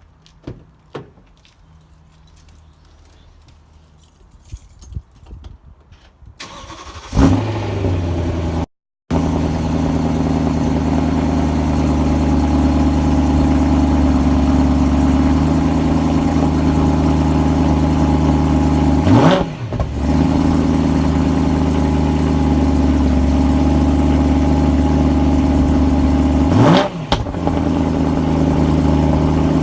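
BMW M3 E92's 4.0-litre S65 V8 cold-started, heard at the exhaust: a few quiet clicks, then the engine catches about seven seconds in with a brief flare of revs and settles into a steady cold idle. The throttle is blipped twice in the second half, each a quick rise and fall in pitch.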